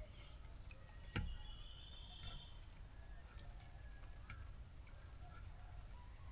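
Faint rural outdoor ambience: a steady high insect drone, likely crickets, with scattered short bird chirps. A single sharp click about a second in.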